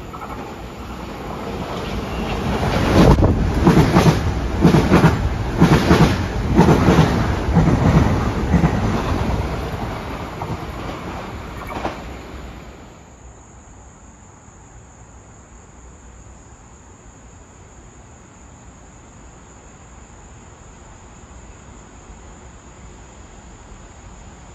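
Metro-North commuter train passing at speed. A rising rumble gives way to wheels clacking in a steady rhythm over the rail joints for several seconds, then fades away about halfway through. A steady high insect chirr then remains.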